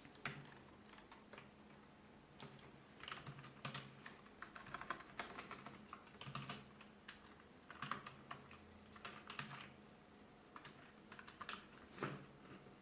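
Faint typing on a 2.4 GHz wireless Office 5+ keyboard: key clicks in short, irregular runs separated by brief pauses.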